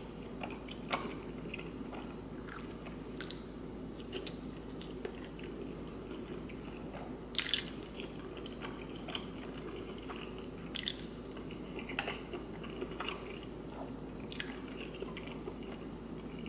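Close-up mouth sounds of a person biting and chewing tteokbokki and fish cake: soft, scattered wet smacks and clicks, with a couple of louder ones about seven and eleven seconds in.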